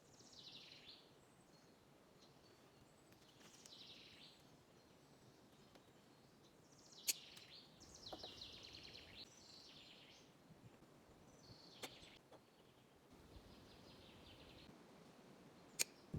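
Faint songbird song: short, high, falling trilled phrases every few seconds, with three sharp clicks.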